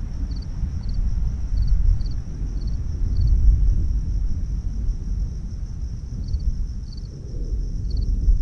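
Low rolling thunder rumbling on, swelling about three seconds in. Insects chirp over it with a steady high trill and short chirps about twice a second that stop midway and return near the end.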